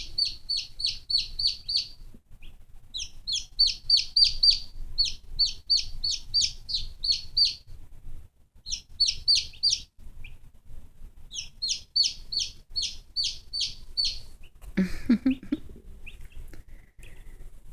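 Baby chicks peeping: loud, high, downward-sliding peeps several a second in bouts with short pauses, stopping about fourteen seconds in. A short lower noise follows about a second later.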